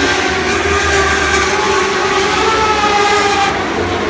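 Several Lightning Sprint cars' motorcycle engines running at high revs on the track, their pitches rising and falling over one another. The sound eases a little about three and a half seconds in.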